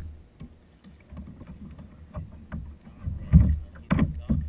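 Knocks and splashing around a plastic sit-on-top kayak as a hooked sea turtle thrashes beside it, over a low wind rumble on the microphone. Two louder thumps come about three and a half and four seconds in.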